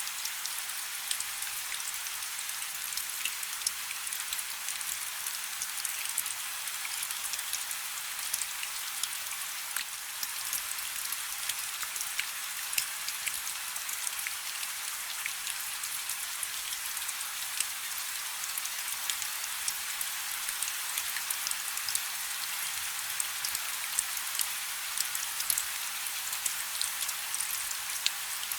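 Light rain falling steadily: an even high hiss with many small drops ticking.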